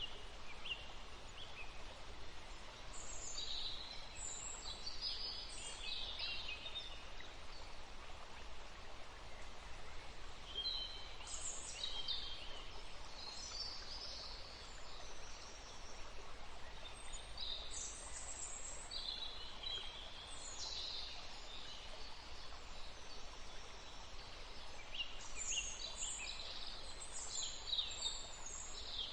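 Birds chirping in short bursts of high calls that come in clusters every few seconds, over a steady background hiss.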